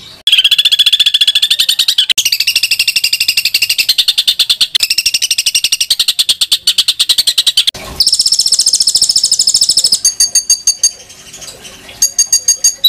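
Songbird masteran song of harsh, rapid-fire 'tembakan' bursts: long strings of fast repeated notes, breaking off briefly twice. From about ten seconds in it changes to a slower series of separate sharp, high chips.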